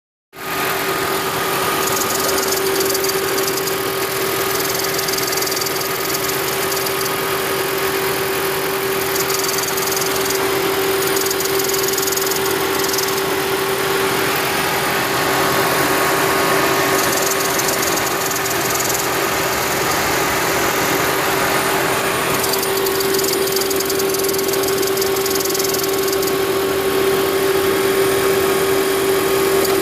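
2010 Toyota Prius's 1.8-litre four-cylinder engine running steadily, with a high hiss that comes and goes over the engine hum. The owner believes the hiss came from the EGR valve not closing completely.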